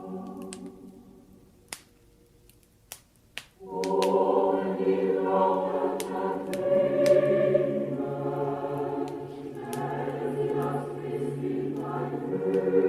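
A choir's Christmas song fades out, followed by a short pause in which a wood fire crackles a few times. A choir then starts the next Christmas song and sings on.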